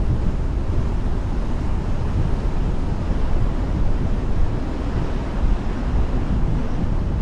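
Steady wind and road noise from a car driving, with the low end heaviest and no music or speech.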